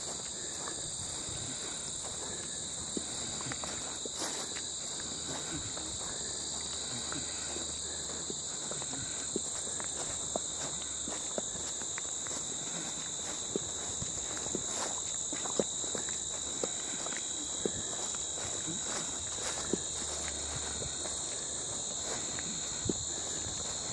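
Steady high-pitched chorus of insects, an unbroken drone, with irregular footsteps on a trail.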